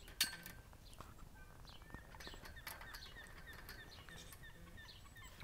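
Faint chirping of small birds, many short, scattered calls, with one sharp click just after the start.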